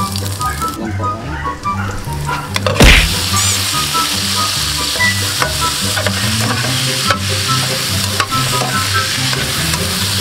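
Garlic frying in hot oil in a nonstick pan, stirred with a metal spatula with light scraping clicks. About three seconds in, raw chicken feet are dropped into the pan with a loud burst, and the sizzle becomes louder and hissier as they fry and are stirred.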